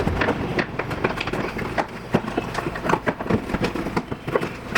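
Irregular clicking and knocking, several times a second, of plastic trim being worked onto its mounting studs.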